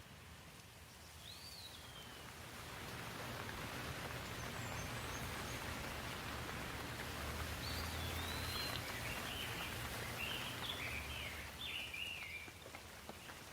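Steady rain hiss that swells over several seconds, with a low rumble underneath, then eases off. Songbirds chirp once early and then several times in quick succession.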